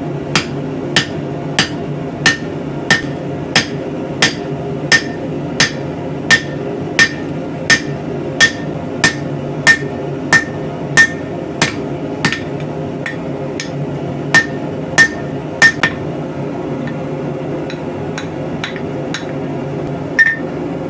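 Hammer blows on metal driving a tapered rebar haft into the eye of a ball peen hammerhead: steady ringing strikes about one and a half a second, pausing briefly and then going on with lighter taps and one last strike near the end. A steady hum runs underneath.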